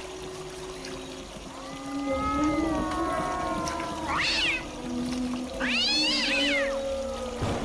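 An animal calling, cat-like: a short rising-and-falling call about four seconds in, then a longer one rising and falling in pitch.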